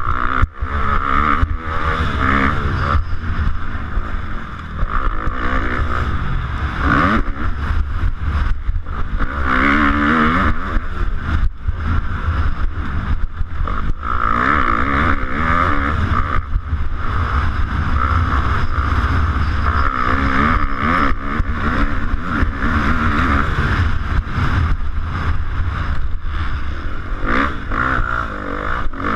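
250cc-class motocross bike engine revving hard and dropping back again and again through gear changes, heard from a camera mounted on the racing bike, with scattered sharp knocks.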